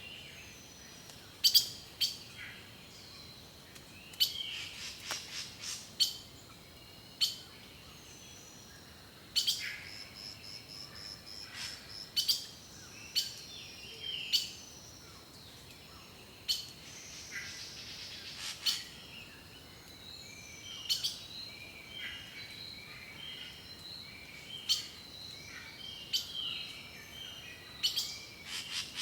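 Several birds chirping and calling: short, sharp chirps every second or two, with some brief whistles that slide down in pitch, and a quick run of chirps near the end.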